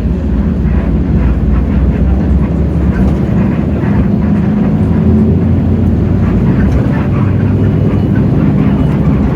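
Hino J08E-VN 7.7-litre six-cylinder diesel of a Hino RK8JRVA city bus running under way, heard from inside the cabin as a loud, steady low drone. Its pitch shifts a couple of times as the bus pulls.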